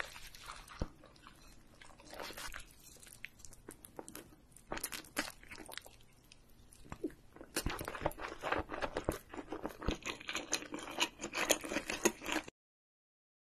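Close-up mouth sounds of biting and chewing a crispy seaweed-wrapped roll: soft chewing with scattered crunches at first, then steady loud crunching from about halfway. The sound cuts off suddenly near the end.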